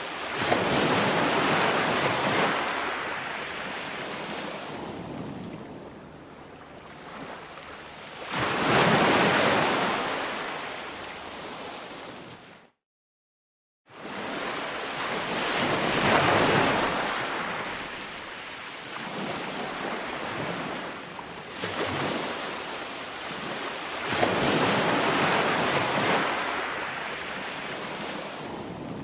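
Ocean surf breaking on a shore: four waves surge in and wash back over several seconds each. The sound cuts out completely for about a second just before the middle.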